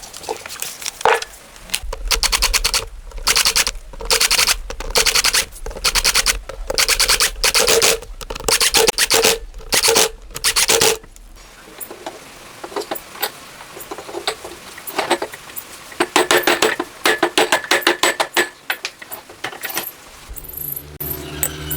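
A hand tool rasping against a part in repeated back-and-forth strokes, a little over one a second for about ten seconds. After a pause of a few seconds the strokes come again, faster and shorter. The sound is typical of filing, scraping or wire-brushing.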